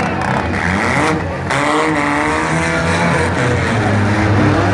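Demolition derby cars' engines running and revving together, several pitches gliding up and down over a steady low drone.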